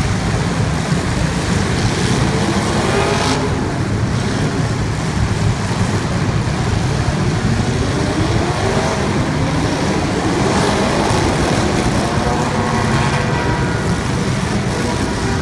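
Race car engines running, a steady loud engine din with several engines rising and falling in pitch as they are revved.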